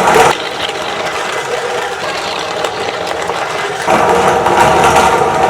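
Electric meat grinder running with a steady motor hum. The sound drops sharply just after the start, stays quieter for about three and a half seconds, then gets loud again near the end.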